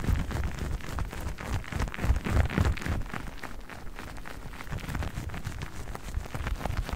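Fast tapping on new sponges: a dense, uneven run of quick, soft taps, a little quieter around the middle.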